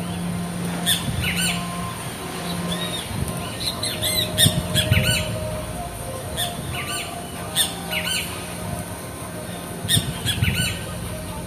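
Birds giving short, repeated squawking calls over a steady low hum, with two brief low rumbles, one in the middle and one near the end.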